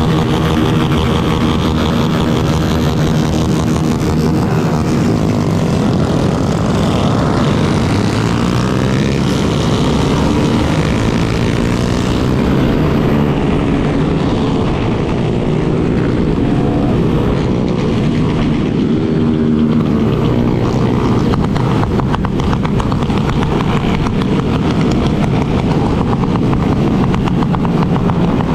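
Motorcycle engines running on the move in a large group ride, led by the Yamaha Lander 250's single-cylinder engine. The pitch rises and falls with the throttle over a steady rush of wind noise.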